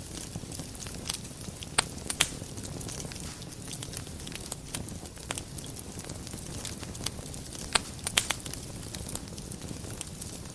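Wood fire burning in a fireplace: a steady low rumble of flames with scattered sharp crackles and pops, the loudest clusters about two seconds in and about eight seconds in.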